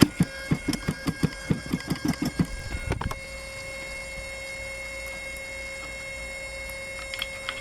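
Desert Aircraft DA-35 35cc gas engine being cranked over without catching, its compression strokes pulsing about five times a second, then stopping with a click about three seconds in. After that only a faint steady whine remains.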